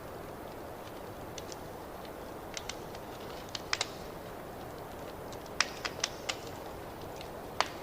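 Wood fire crackling: a steady low hiss with sharp pops at irregular intervals, the loudest a little after halfway and near the end.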